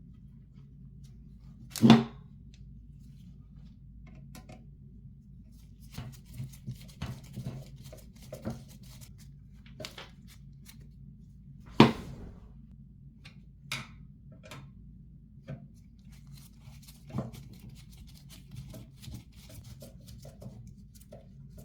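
Computer parts being handled during assembly: scattered clicks and light knocks, with two sharp knocks, one about two seconds in and one near the middle, over a steady low hum.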